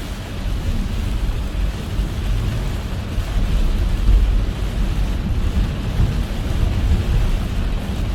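Car driving in heavy rain: a steady rush of rain and tyres on wet road over a low rumble, briefly louder about four seconds in.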